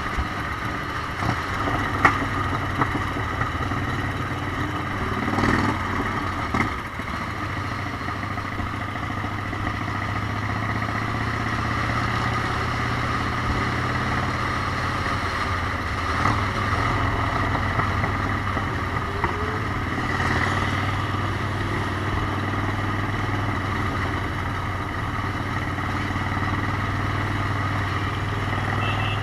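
Motorcycle engine running steadily while riding, with a few brief knocks.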